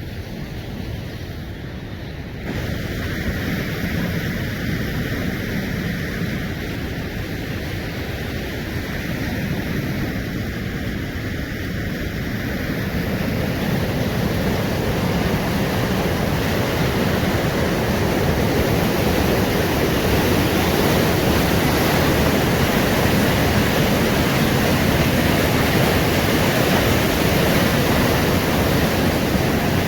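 Steady rushing of river rapids, growing louder in a step about two seconds in and swelling further around the middle.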